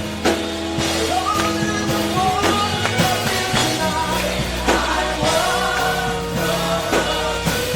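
Live gospel worship music: singers over a band with a steady drum beat.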